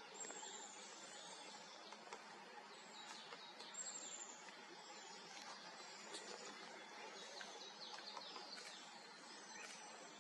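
Faint forest birdsong: scattered high chirps and a thin, high trill near the start and again about four seconds in, over a steady faint hiss.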